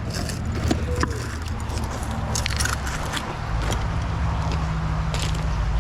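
A steady low engine-like hum, with scattered short metallic clinks and rattles.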